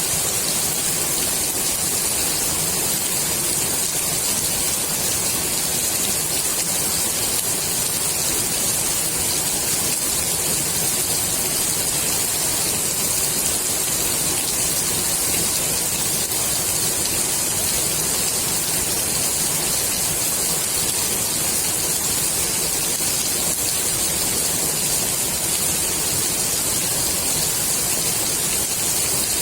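Steady rain falling on the water of a swimming pool, a dense even hiss of drops.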